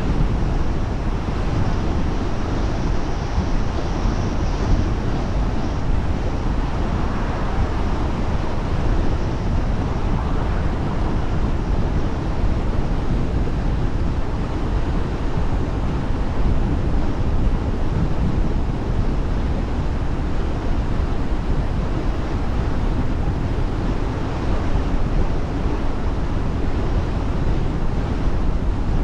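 A car driving at steady speed: continuous road and wind noise, a low rumble with an even hiss above it and no distinct events.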